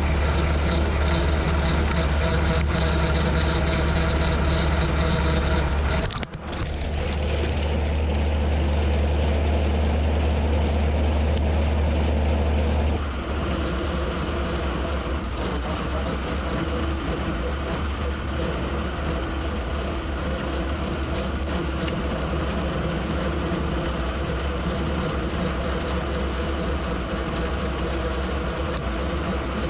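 Tractor engine running steadily while pulling a rotary cutter (bush hog) through a mowing job. The sound drops out for a moment about six seconds in, and about thirteen seconds in it settles to a slightly lower, different-toned run.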